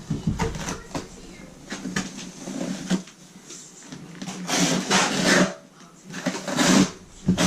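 Trowel scraping thinset mortar across a plywood subfloor in a series of scraping strokes, the longest and loudest, each about a second, in the second half.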